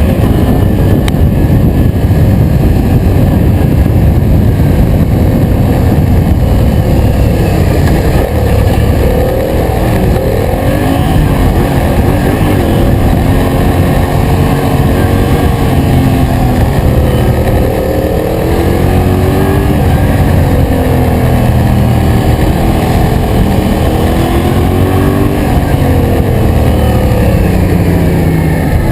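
Yamaha MT-07's parallel-twin engine running under way, with the revs rising and falling several times over a heavy, steady rumble of riding noise.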